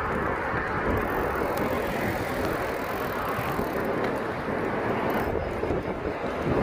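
Steady rushing noise of a mountain bike being ridden along a road: wind over the microphone mixed with tyre rumble, with a few faint ticks.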